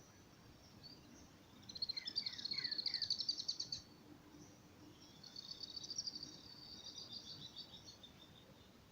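A songbird singing two high, rapid trilled phrases: the first about two seconds long and the loudest, opening with a few short downward-slurred notes, the second a softer trill of about three seconds that fades out.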